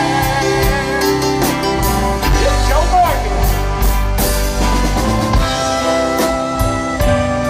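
Live rock band playing a song, with the drum kit and bass prominent under sustained pitched notes.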